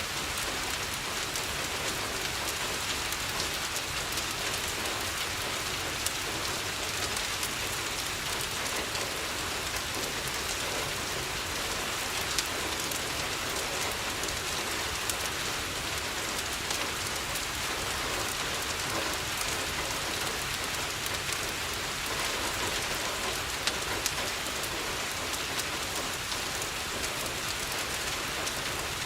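Steady rain falling on a window, an even hiss, with a few sharp clicks scattered through it.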